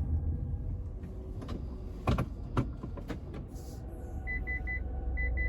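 Car engine running with a low rumble inside the cabin, a few sharp clicks midway, then from about four seconds in a car's electronic warning chime beeping in quick sets of three.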